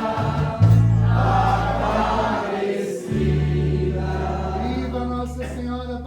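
Religious hymn: several voices singing together over held low bass notes, which change about half a second in and again about three seconds in.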